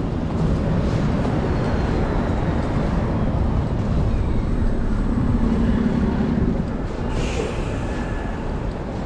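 City avenue traffic: a steady rumble of passing vehicles, with an engine hum swelling around five to six seconds in and a short hiss about seven seconds in.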